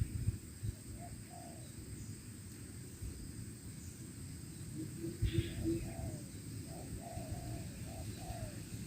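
Spotted doves (tekukur) cooing: two soft coo notes in the first second and a half, then a run of short coo notes from about five and a half seconds on. A brief higher chirp from another bird comes just before the run.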